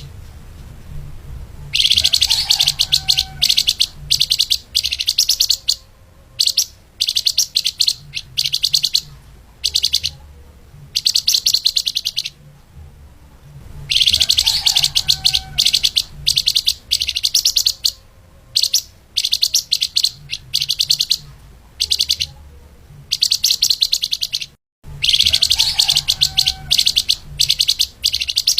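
Flamboyan (lemahan) songbird singing in fast, dense bursts of rapid high chirps and twitters, phrase after phrase with short pauses between, over a faint low hum.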